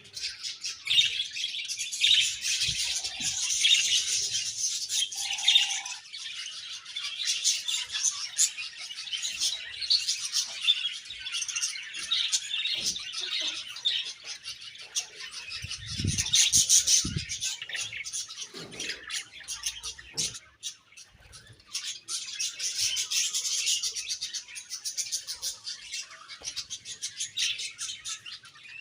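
Several budgerigars chirping and chattering continuously. A few low thumps come about 16 seconds in.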